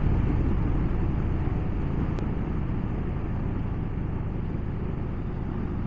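Motorcycle on the move: a steady rumble of engine and wind, slowly getting quieter.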